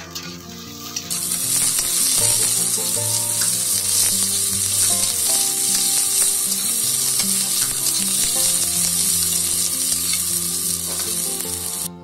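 Sliced onions sizzling loudly in hot oil in a kadai, stirred and scraped with a metal spatula; the sizzle swells about a second in and cuts off just before the end. Background music plays underneath.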